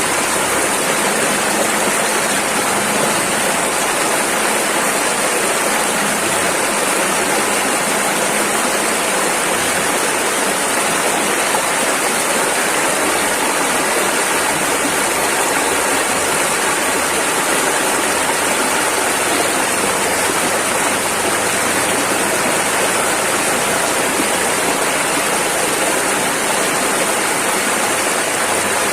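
Rushing river water: a loud, steady roar of fast-flowing rapids, unchanging throughout.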